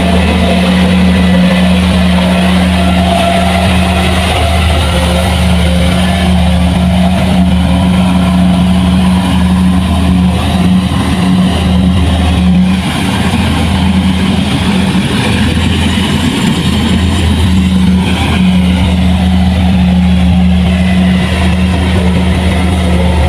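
Heavy farm machine's diesel engine running steadily at a constant speed, with a loud, even low hum.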